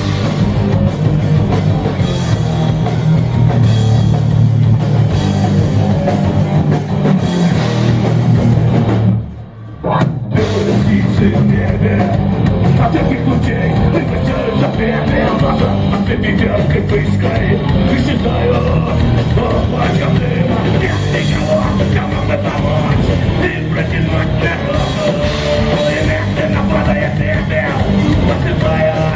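Punk rock band playing loud, with distorted guitar, bass and drum kit. The band cuts out briefly about nine seconds in, then comes back in full.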